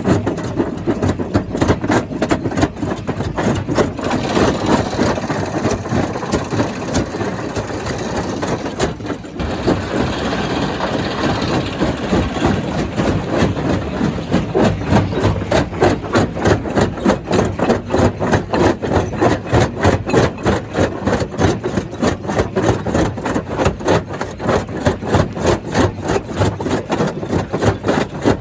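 Stone crusher plant running, a steady mechanical din with a rhythmic pulse of about three beats a second, from the crusher and the engine that drives it.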